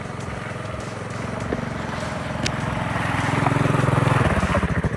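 Small single-cylinder trail-machine engines (Honda ATC 200M three-wheeler and XL70 trail bike) running on the trail. The note grows steadily louder, then about four seconds in drops to a slower, pulsing beat as the throttle comes off.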